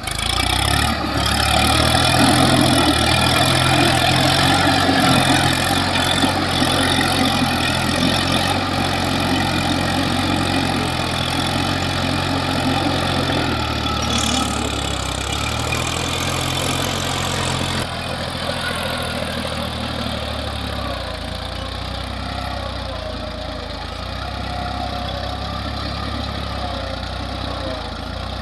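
New Holland farm tractor's diesel engine running steadily under work, its low note shifting a few times partway through.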